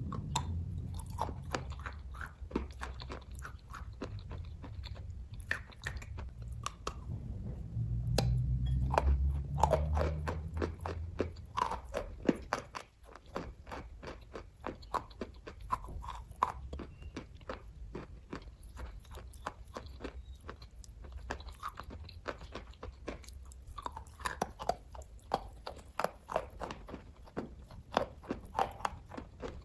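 Close-up chewing of kaju katli, a soft cashew fudge: a steady run of wet mouth clicks and smacks. A low rumble sits under the chewing for about the first twelve seconds, swelling about a third of the way in.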